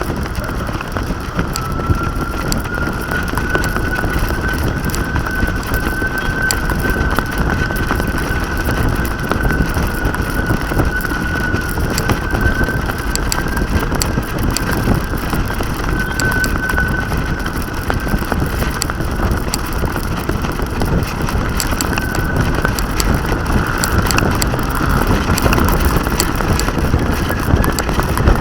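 Wind buffeting and rushing over the microphone of an action camera carried aloft on a flying kite, loud and unsteady, with a thin high whistling tone that holds steady and wavers slightly in pitch throughout.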